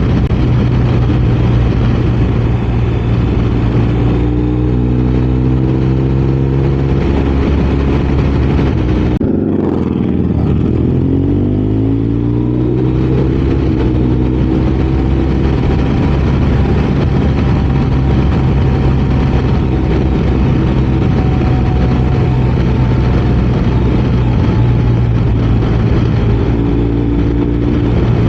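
BMW R 1250 RS boxer-twin motorcycle engine running under way at a steady pitch. About nine seconds in the note breaks briefly, then climbs over a few seconds as the bike accelerates.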